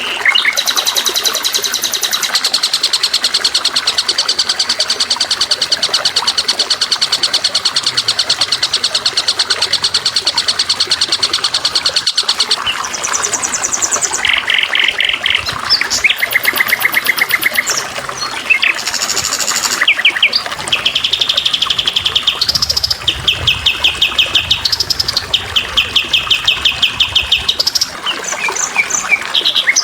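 Songbirds singing in rapid high trills: one long trill for the first dozen seconds, then a string of shorter trills and chirps, over a steady trickling of water.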